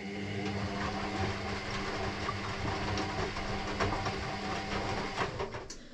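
Electrolux EW6S404WU ecobubble washing machine running, a steady motor hum with scattered light clicks and rattles as the drum turns. It winds down and stops shortly before the end.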